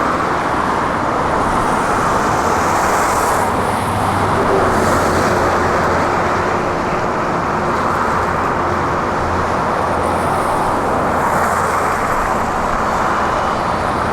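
Heavy diesel construction machinery running steadily, with a low hum under an even engine noise.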